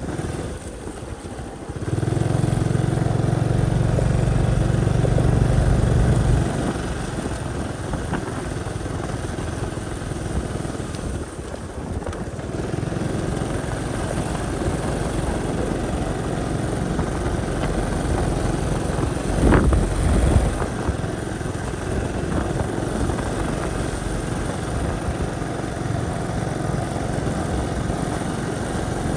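Motorcycle engine running under way, with road and wind noise. The engine note grows louder about two seconds in and eases back some four seconds later. There is a short louder burst about two-thirds of the way through.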